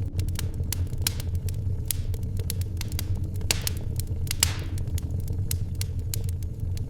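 Wood fire crackling, with irregular sharp pops and snaps over a steady low rumble, and a brief louder hiss about four seconds in.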